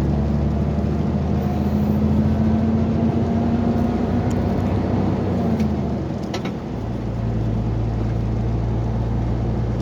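Excavator diesel engine running steadily. About six to seven seconds in, its note settles to a lower steady hum.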